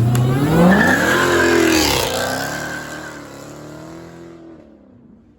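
A car accelerating hard: the engine's pitch rises over the first second, a high steady squeal runs through the middle, and the sound fades away over the last couple of seconds as the car pulls off.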